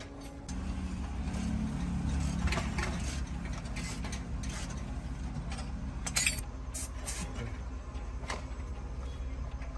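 An engine starts running about half a second in with a steady low rumble, with a few sharp metallic clicks or knocks around six to seven seconds in.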